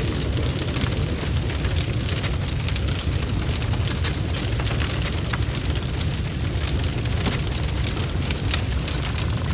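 Wood fire burning steadily, with a low rumble of flame and frequent sharp crackles and pops of burning wood.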